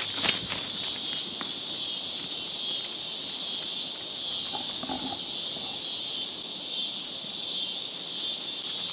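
Dense chorus of insects outdoors: a steady, shrill, high-pitched drone with a faint pulsing texture. A few light clicks sound just after it begins.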